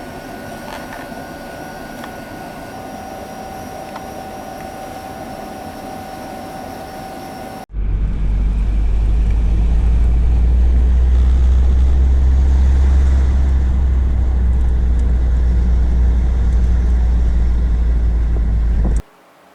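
Steady machinery hum with a few thin high tones, then a loud, deep, steady engine rumble from the ferry's engines that cuts off abruptly near the end.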